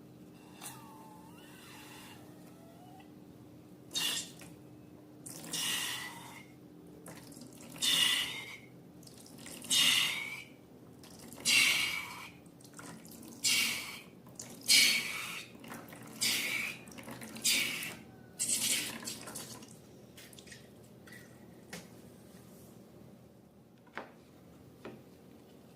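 Liquid squirting and splashing in about ten short spurts, roughly one every second and a half, like contents being squeezed out of a balloon into a bowl for slime.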